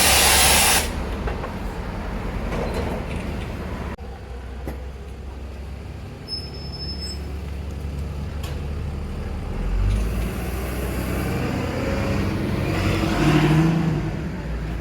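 A bus's air brakes release with a loud hiss at the start, followed by street traffic and a bus engine that swells near the end as it pulls past.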